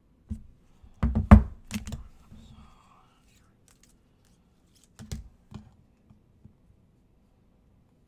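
A few sharp clicks and knocks, bunched about a second in and again about five seconds in, like small objects handled on a desk.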